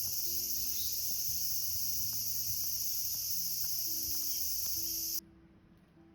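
Steady chorus of crickets shrilling in several high bands, with soft background music of held notes underneath. Both cut off suddenly about five seconds in, leaving only faint ticks.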